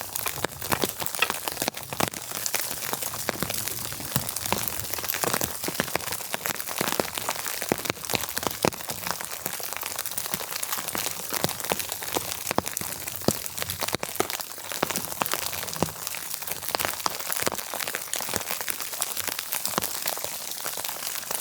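Onions and garlic sizzling in a cast-iron pan over a fire: a steady, dense hiss full of small crackles and pops.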